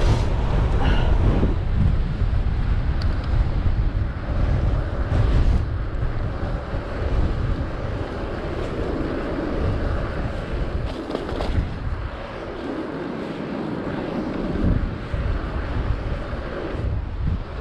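Strong wind buffeting a GoPro's microphone while cycling into a headwind: a loud low rumble that surges and eases with the gusts. Baggy, worn windshields on the cameras let in more of the wind noise.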